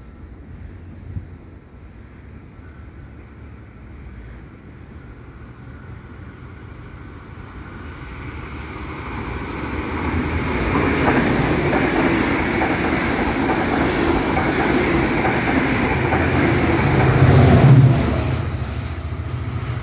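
Locomotive-hauled passenger train with double-deck coaches approaching and running through the station at speed without stopping. Its rumble builds from about eight seconds in and is loudest as the locomotive passes close by near the end, then the coaches keep rushing past.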